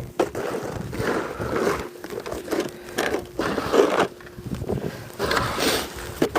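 Snow shovel scraping over pavement in several strokes, roughly one a second.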